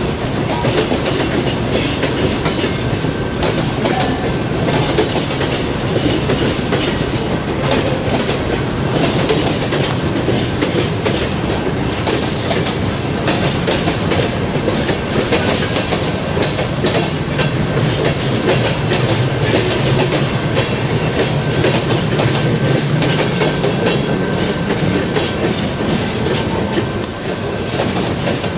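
Canadian Pacific freight train's cars rolling past: a steady, loud rumble with the wheels clicking over rail joints throughout.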